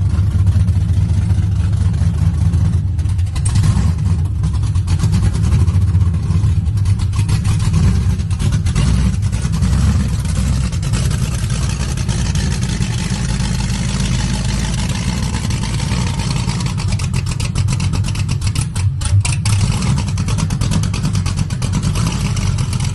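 Cadillac V-series car engine idling through its freshly worked exhaust, a loud, steady low running sound with small rises and falls.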